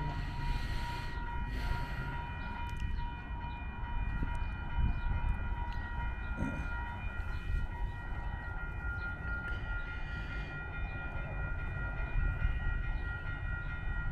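Non-stop Metra commuter train approaching the station: a steady low rumble with several steady high-pitched tones held over it.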